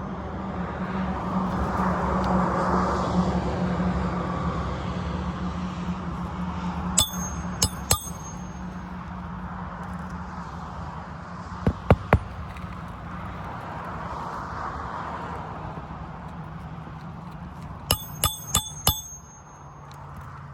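Roofing nails being tapped into an asphalt shingle with a metal tool: three short bursts of sharp, ringing metal-on-metal strikes, a few blows each, just starting the nails rather than driving them home. A steady low hum runs underneath.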